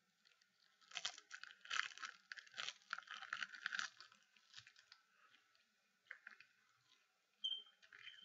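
Crisp crunching and chewing of a seasoned seaweed sheet, densest for about three seconds after the first bite, then quieter and sparser chewing, with a brief squeak-like mouth sound near the end.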